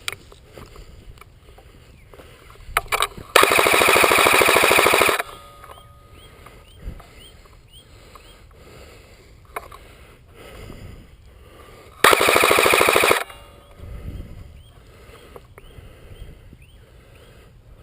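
An airsoft electric gun (ARES Tavor 21 AEG) fires two full-auto bursts. The first, about two seconds long, comes a few seconds in; the second, about a second long, comes past the middle. Faint clicks and pops sound between the bursts.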